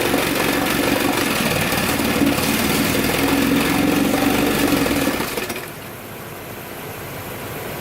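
Chrysler 9.2 hp two-stroke outboard motor running steadily, then dying about five and a half seconds in, its sound falling away quickly.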